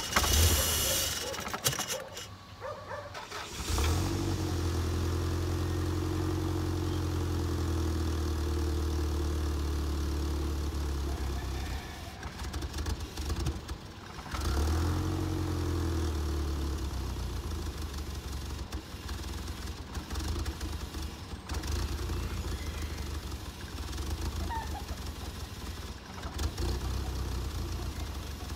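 Toyota 3S-GTE turbocharged four-cylinder in a 1991 MR2 Turbo running at idle, freshly revived after years of sitting; its pitch wavers a little and the sound drops away briefly about two seconds in and again around twelve seconds. A hiss at the very start.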